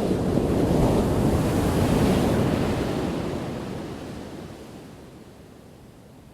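An ocean wave breaking: a sudden rush of surf at the start that stays loud for two or three seconds, then washes out and fades to a low hiss.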